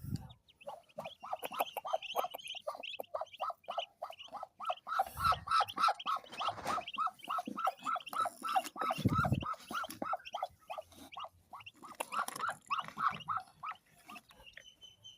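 Muscovy ducklings peeping, a steady run of short repeated peeps, several a second. Two low thumps sound about five and nine seconds in.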